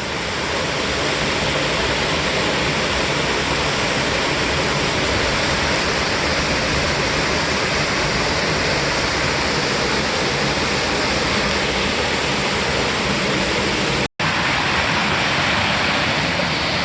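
Waterfall rushing steadily, an even roar of falling water. The sound cuts out for an instant about fourteen seconds in, then resumes unchanged.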